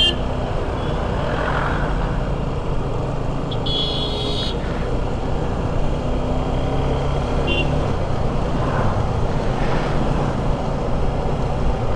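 Motorcycle engine running steadily while riding, mixed with wind and road noise. A short high-pitched tone sounds about four seconds in.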